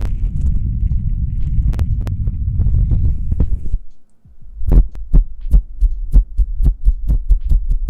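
Hands rubbing close to the microphone, a deep dense rustle. After about four seconds it stops briefly, then gives way to steady rhythmic tapping or patting, about two to three deep thumps a second.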